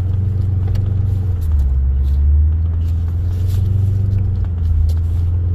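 Vehicle engine and drivetrain droning steadily from inside the cab while driving slowly through snow, the low pitch easing down and back up a little once or twice.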